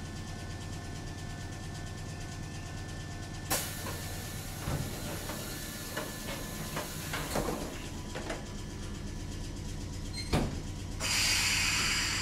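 Kotoden 1070 series electric train car from on board: a steady low hum, a run of knocks and clunks from about three and a half seconds in, and a loud hiss starting about a second before the end.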